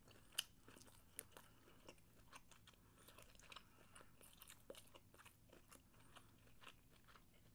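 Faint close-up chewing of food, with soft crunches and small wet mouth clicks scattered throughout.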